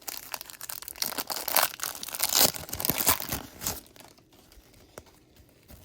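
Foil trading-card pack wrapper being torn open and crinkled: a dense crackle for about four seconds, then a few faint ticks.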